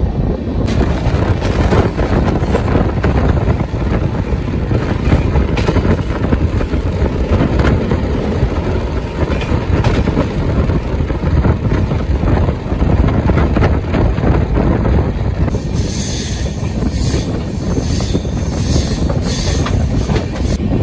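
Running express train heard from aboard a sleeper-class coach: a steady rumble of wheels on the track, with scattered clicks over the rail joints. From about three-quarters through, a sharper clatter repeats over and over.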